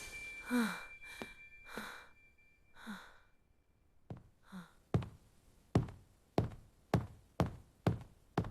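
A cartoon character's breathy sighs, about five of them, each with a short falling pitch. They are followed from about halfway on by about seven sharp thuds, roughly one every half second.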